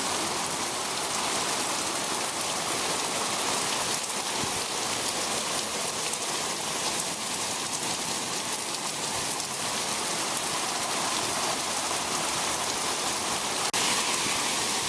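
Heavy rain in a steady downpour, a dense even hiss with no letup.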